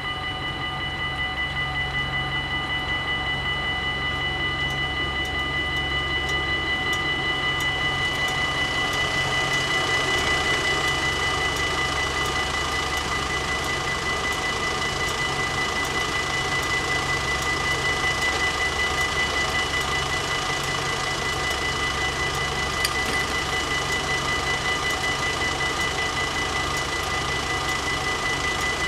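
Dutch AHOB level-crossing warning bells ringing in a steady, even rhythm. A train's low rumble runs underneath.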